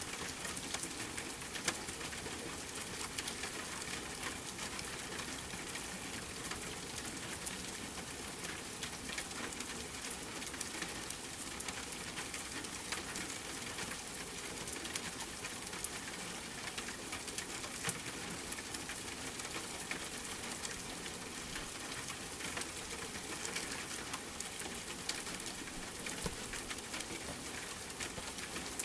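Steady rain with a fireplace crackling: an even hiss with scattered sharp pops and ticks throughout.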